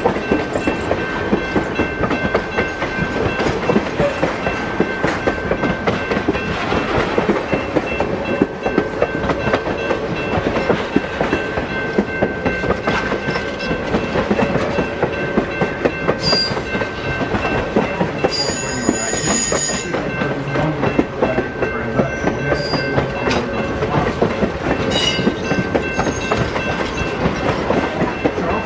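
Passenger excursion train's cars rolling past, wheels clicking steadily over the rail joints, with a few brief high-pitched wheel squeals in the second half.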